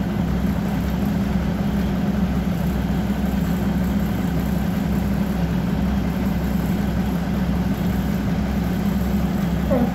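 Diesel train engine idling, heard from inside the passenger carriage as a steady, even low drone.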